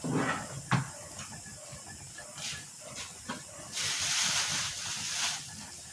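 Pot boiling on the stove, steam hissing steadily, with a louder surge of hiss lasting about a second and a half past the middle. A few sharp knocks come in the first second.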